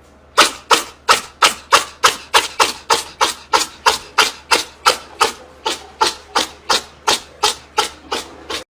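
Rhythmic rasping strokes, something rubbed or scraped back and forth, a little under four a second, steady in pace for about eight seconds.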